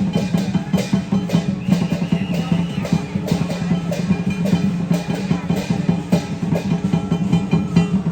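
Lion dance percussion band playing: a drum beaten in a fast, dense rhythm with ringing metal percussion, continuous and loud.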